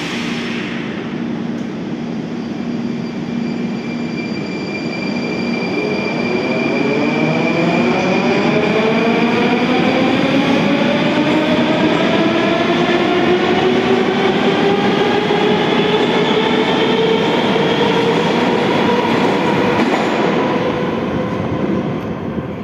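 81-740.1 metro train pulling away under power: its traction drive whine, several tones rising together, climbs for about twelve seconds and then levels off, over a steady rumble of wheels on rail. A short burst of noise sounds right at the start, and the sound fades near the end.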